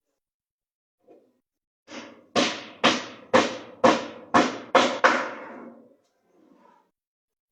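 Hammer blows on wood: about eight sharp strikes, roughly two a second, each ringing briefly, with a lighter tap before and after.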